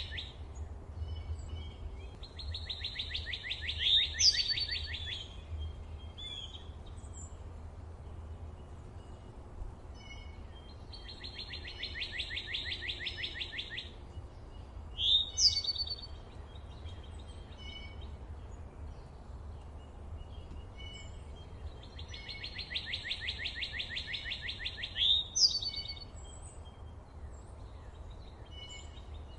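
Forest birds singing: a rapid trill of about two and a half seconds comes three times, about ten seconds apart, each followed by a loud, sharp falling note, with short chirps from other birds in between. A steady low rumble runs underneath.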